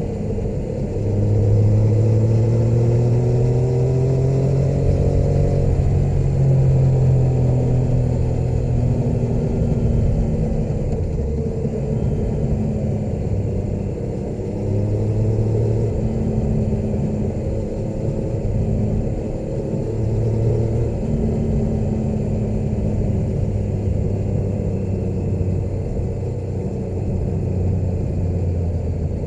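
Motorcycle engine running on the road, its revs rising and falling several times as the ride goes on.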